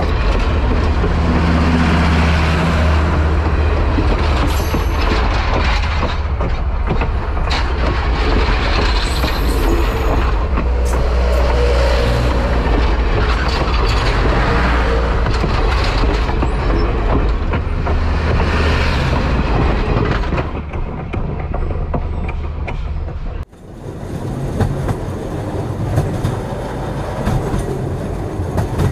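Passenger train cars rolling past close by, with a steady low rumble of the wheels on the rails, scattered clicks and a few brief high wheel squeals. About three-quarters of the way through, the sound cuts off abruptly and goes on quieter, with more separate clicks.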